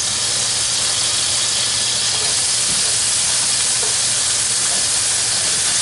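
Chopped onions and garlic sizzling steadily as they sauté in hot bacon fat in a pan.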